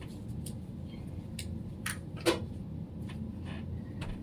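Low steady room hum with scattered small clicks and taps, one louder tap about two seconds in.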